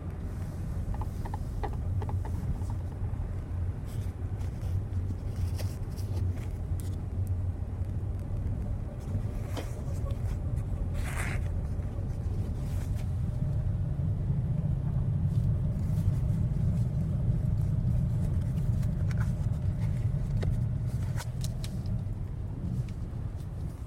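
Hyundai Creta 4WD driving slowly in low gear in hard frost, heard from inside the cabin: a steady low rumble that grows louder past the middle, with scattered faint short clicks and creaks. The creak from underneath comes from the driveshaft's centre support bearing, later replaced under warranty together with the driveshaft.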